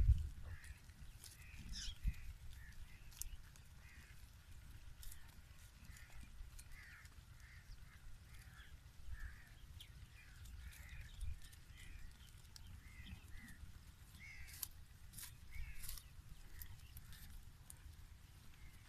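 Birds calling in the background, many short calls scattered throughout, over a low rumble with a few sharp clicks.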